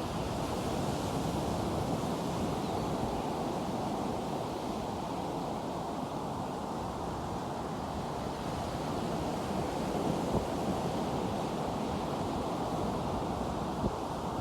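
Ocean surf breaking and washing ashore, a steady rush with wind buffeting the microphone.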